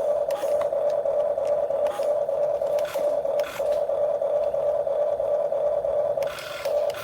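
Small electric motor of a radio-controlled construction model whining steadily at one high pitch, with a few sharp clicks. Near the end the whine briefly shifts to a higher, fuller tone.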